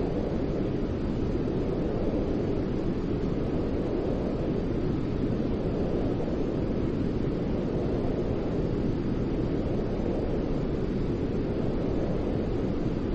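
Steady, unbroken white noise, a deep rushing hiss with most of its weight in the low end.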